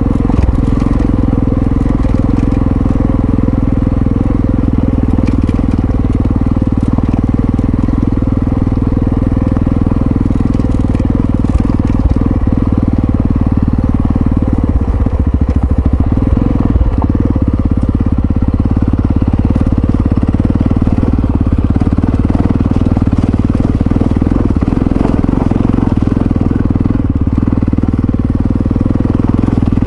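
Yamaha XT660Z Ténéré's single-cylinder engine running steadily under way, its note changing briefly about halfway through.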